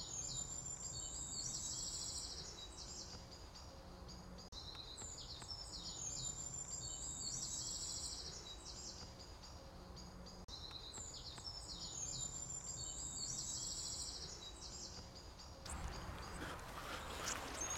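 A songbird's phrase, a run of high whistled notes ending in a fast trill, heard three times about six seconds apart over faint steady background noise. Near the end this gives way to a rustling, crackling noise.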